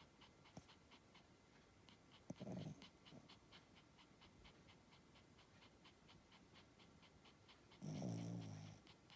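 Pomeranian spitz snoring in its sleep: a faint, quick, even rhythm of breaths, about five a second. There is a short snort about two and a half seconds in, and a louder, low snore about a second long near the end.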